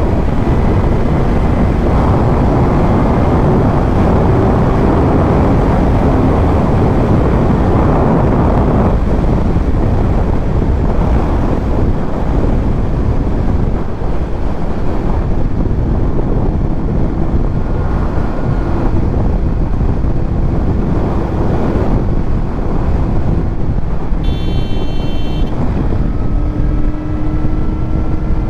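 Wind rushing over the helmet-mounted microphone of a Kawasaki Z900 at riding speed. The inline-four engine and titanium Arrow exhaust run underneath, their pitch rising and falling slowly with the throttle.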